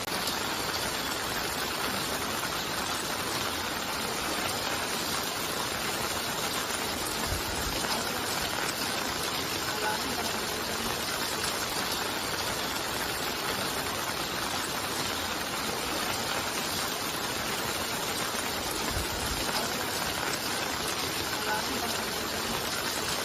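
Steady, unbroken rushing of storm water, with two brief low thumps, one about seven seconds in and one near the end. It cuts off suddenly at the end.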